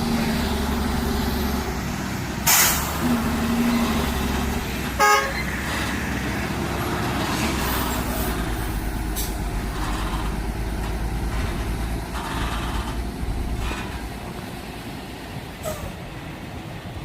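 Heavy truck's diesel engine running steadily under load, with a sudden burst of hiss about two and a half seconds in and a short horn toot about five seconds in.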